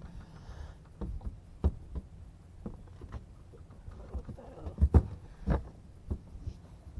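Scattered knocks and thumps at irregular intervals, the loudest pair about five seconds in, over a low steady rumble.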